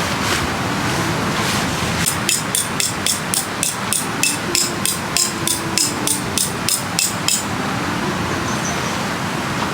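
Hammer driving a metal tent peg into the ground: a run of about twenty quick strikes with a ringing metallic edge, about four a second, stopping a couple of seconds before the end.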